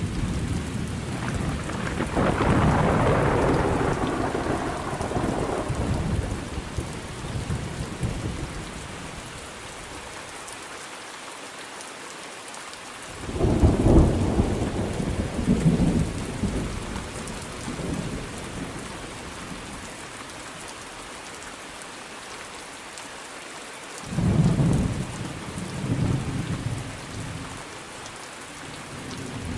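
Thunderstorm: steady rain with rolling thunder, three long rumbles, the first at the start, another about halfway through and a third near the end.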